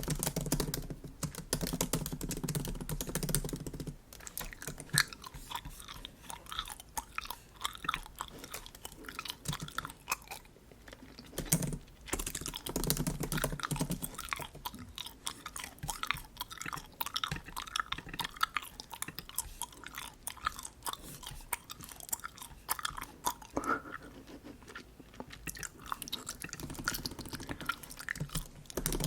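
Bubble gum chewed close to the microphone: continuous wet, smacking clicks, with a few short stretches of MacBook keyboard typing mixed in.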